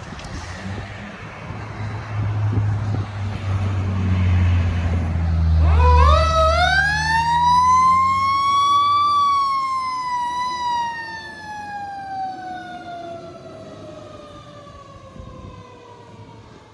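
Fire engine's engine rumbling as it pulls out. About six seconds in, its siren winds up to a high pitch, then slowly winds down, its pitch still falling near the end.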